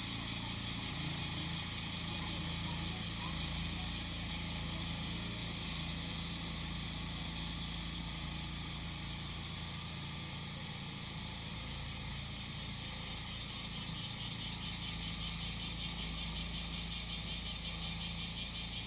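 Cicadas singing over a small grass-cutting machine engine running steadily. The cicadas' high buzz turns into an even pulsing, about three beats a second, in the last third.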